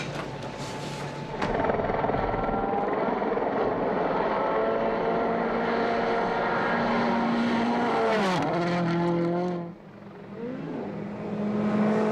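World Rally Car's two-litre turbocharged four-cylinder engine pulling hard at high revs, its pitch climbing slowly. The pitch drops sharply about eight seconds in. The car lifts off briefly near ten seconds, then pulls again.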